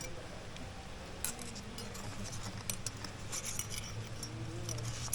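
Metal climbing gear clinking and jangling: a scattered series of light metallic clicks, starting about a second in and coming more often toward the end.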